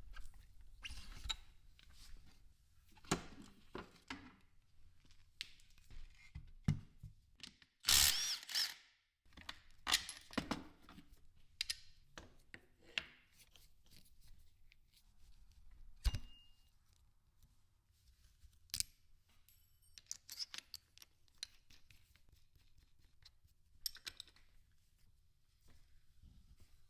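Workshop hand-tool work on a motorcycle shock's bearings: scattered clicks, taps and knocks of metal tools and parts, with one louder rasping burst lasting just under a second about eight seconds in.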